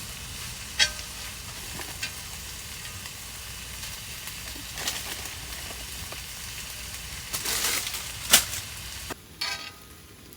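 Squid and onion sizzling as they are stir-fried in a hot pan, with a utensil clicking and scraping against the pan now and then and one sharp clack about eight seconds in. The sizzle turns quieter about nine seconds in.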